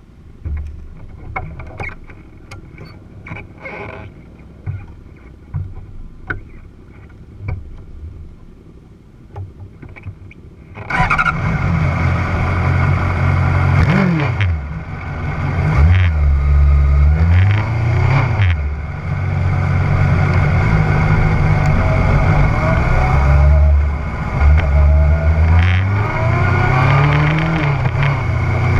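Motorcycle engine starting about eleven seconds in, then idling with several blips of the throttle that rise and fall in pitch. Before it starts, scattered clicks and knocks.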